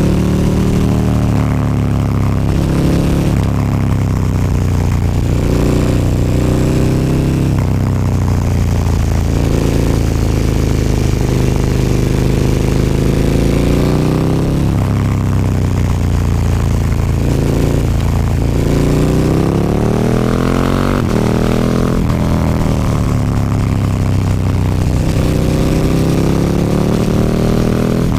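KTM 1290 Super Duke R's V-twin engine through an Akrapovic slip-on exhaust, ridden on the road: its note climbs repeatedly under acceleration and drops back at each shift or roll-off.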